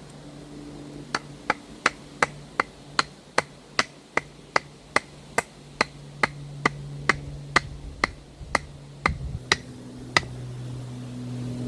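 Lump hammer tapping a 50 mm wooden post into the ground: a steady run of sharp knocks, about two and a half a second, starting about a second in, with a faint low hum underneath.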